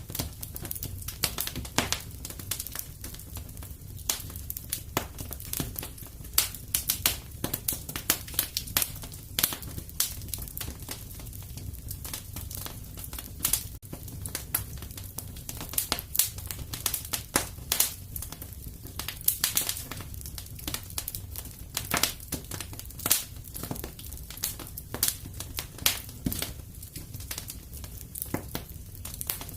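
Wood fire crackling, with irregular sharp snaps and pops over a steady low rumble.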